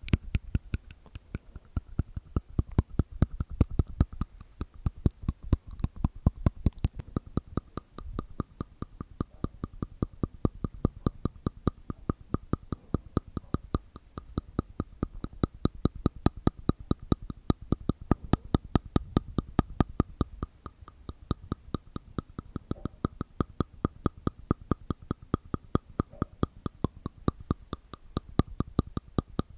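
Close-miked ASMR mouth sounds: a steady run of quick, sharp clicks made inside the mouth, about five a second.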